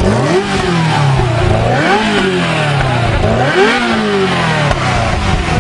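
A modified engine revving up and dropping back again several times, its pitch climbing and falling with each blip of the throttle.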